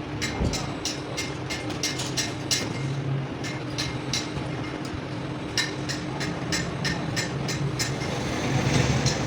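A workshop machine running with a steady hum, with many irregular sharp clicks over it. It gets a little louder near the end.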